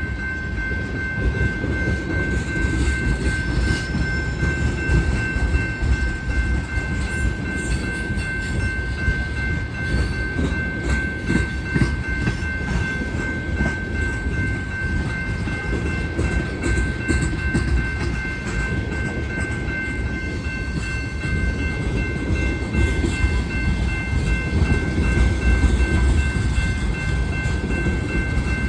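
Freight train of tank cars rolling past: a steady low rumble of wheels on rail, with a steady high whine held throughout.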